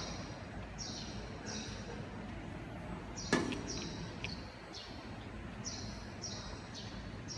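A small bird chirping repeatedly: short high notes, each dropping slightly in pitch, about one or two a second, over a steady low hum. A single sharp click a little over three seconds in.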